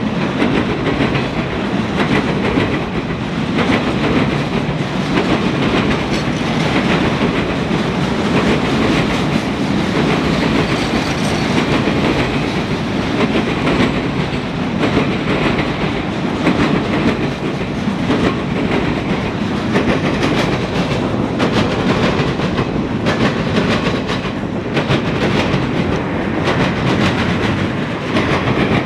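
CSX rail train's cars (carrying long welded rail) rolling past at close range: a steady loud rumble with frequent wheel clicks over the rail joints.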